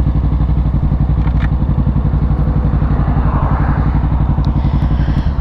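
Kawasaki Ninja 650's parallel-twin engine running at steady revs while riding, an even pulsing drone that holds one pitch throughout.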